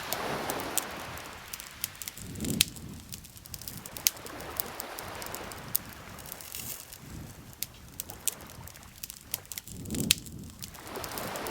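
Wood campfire crackling, with frequent sharp pops and snaps, over soft swells of lake water lapping that rise and fade every few seconds.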